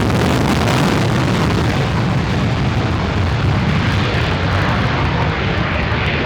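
Pilatus PC-21 turboprop trainers flying a close formation pass, a loud steady engine and air noise whose high hiss fades from about two seconds in while the low rumble carries on.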